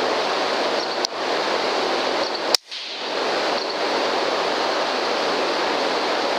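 A steady rushing noise with a faint click about a second in and a sharper, louder click about two and a half seconds in, after which the sound drops out for a moment before the rushing returns.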